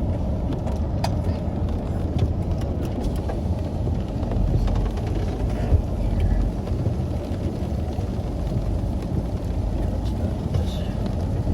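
Chevrolet Suburban driving slowly along a rough, muddy dirt road: steady engine and tyre rumble, with scattered sharp ticks and knocks during the first few seconds.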